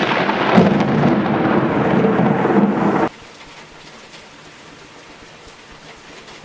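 Thunder with heavy rain: a sharp crack, then about three seconds of loud rumbling that cuts off suddenly. Quieter steady rain follows.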